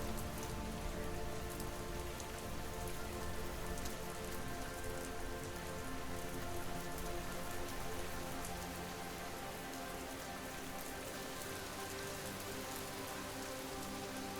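Steady rain falling, with fine patter of drops, over soft sustained musical tones.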